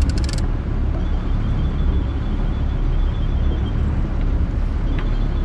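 Sportfishing boat's engine running steadily with a low drone under wind and water noise. A short run of clicks comes right at the start.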